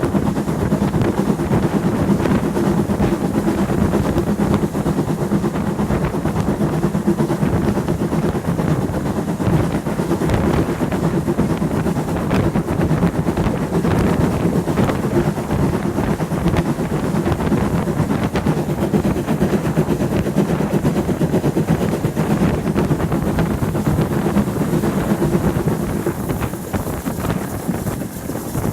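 Steam-hauled heritage train running along the line: a steady, loud rumble of the moving train with wind noise, easing slightly near the end.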